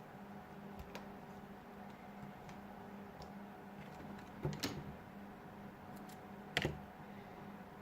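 A few sharp clicks and taps of small parts being handled on a smartphone under repair, over a steady low hum. The loudest are a double click past the middle and a single click near the end.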